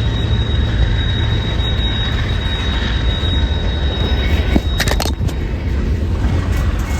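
Train rumbling steadily, with a thin high steady tone that stops about four seconds in and a few sharp clicks about five seconds in.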